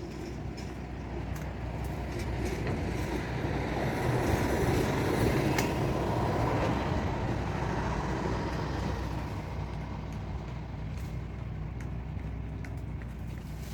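A motor vehicle passing by: its noise rises to a peak about five seconds in and then fades, over a steady low engine hum.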